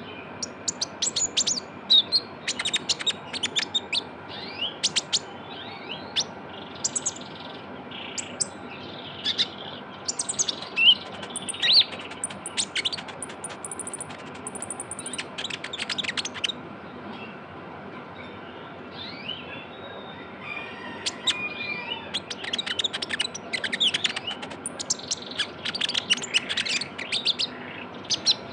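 Kolibri ninja (Van Hasselt's sunbird) singing energetically: rapid, high-pitched chattering trills and chirps in repeated bursts, with a short pause about two-thirds of the way through. It is the 'trotol' song style used as a lure recording to provoke caged birds to sing.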